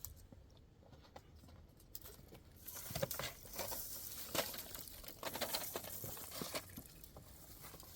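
Dry twigs and brush rustling and crackling in a dense run of irregular small cracks, starting about two and a half seconds in and dying down near the end.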